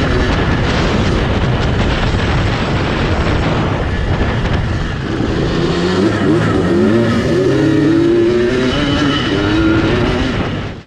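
Honda CR250 single-cylinder two-stroke engine of a custom quad running hard, its pitch rising and falling again and again as it revs up and down. It cuts off suddenly at the very end.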